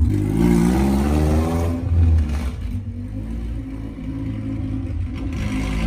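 Honda CRX four-cylinder engine, breathing through a new 4-1 header, revving up as the car accelerates away, pitch rising for about a second and a half, then dropping at a gear change and running on more quietly as it moves off.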